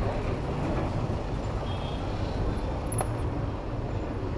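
Steady street-traffic and riding noise heard from a bicycle moving through city traffic, heaviest in the low rumble, with a faint tick about three seconds in.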